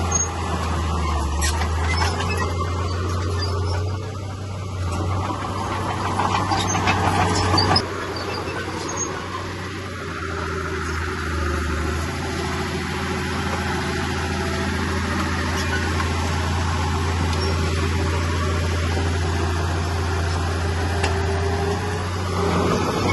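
Komatsu bulldozer's diesel engine running steadily under work, a low drone with machinery noise over it that drops in level about eight seconds in.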